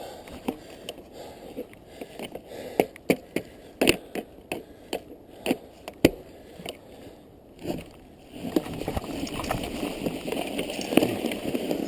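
Mountain bike in snow: a series of sharp, irregular clicks and knocks, then from about eight seconds in a steady rushing, crunching noise as it rolls through the snow.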